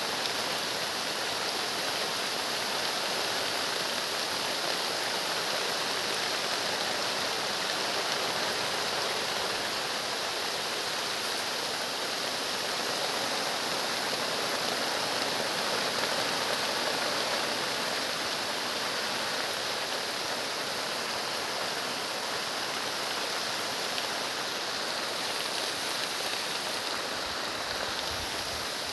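Rain falling steadily: a dense, even hiss of heavy rainfall.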